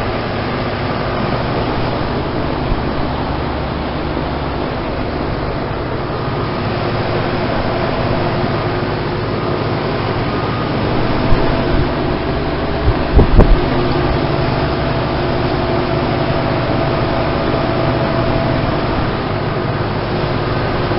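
Outdoor heat pump units running in heating mode: a steady compressor hum with several steady tones and the rush of the condenser fan. A few short low bumps come about 11 to 13 seconds in.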